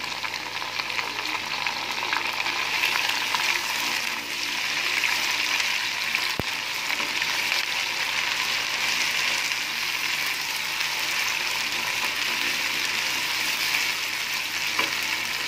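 Onions, tomatoes, green chillies, ginger-garlic paste and lime slices sizzling steadily in hot oil in a wok while a spatula stirs them.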